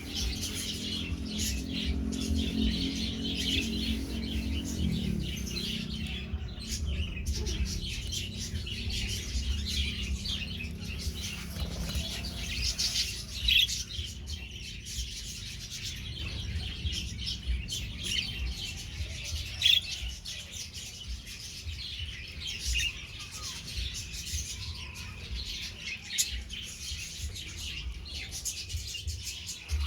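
Budgerigars chirping and chattering in quick, overlapping calls, with a couple of louder sharp calls about halfway through.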